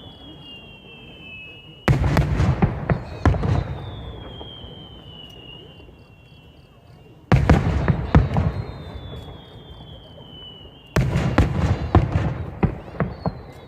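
Aerial fireworks: three loud bursts a few seconds apart, each followed by a second or so of crackling, with a high whistle sliding down in pitch in the gaps between them.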